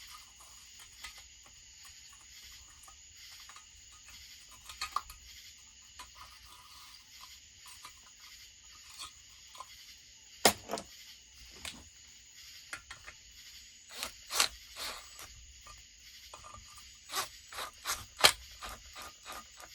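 Scattered sharp metallic clicks and light scrapes of bolts and tools being handled as a block-off plate is bolted onto a chainsaw cylinder's port by hand. The clicks come singly, with a louder cluster in the second half.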